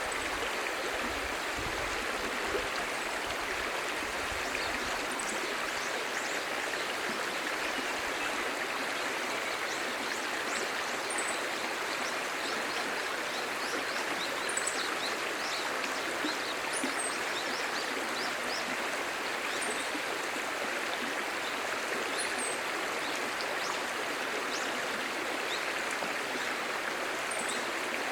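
A clear shallow stream babbling steadily, with faint, short, high chirps every few seconds.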